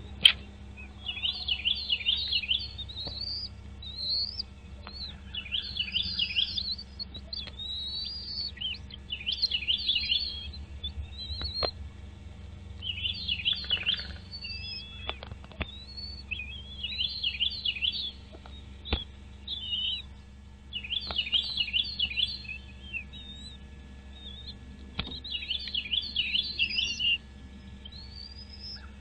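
Bird calling in repeated bursts of rapid, high chirps, each burst lasting a second or two and coming every few seconds.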